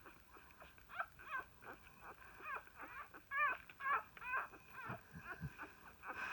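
Newborn puppies squeaking and whimpering: a run of short, high squeals, several in quick succession and loudest around the middle.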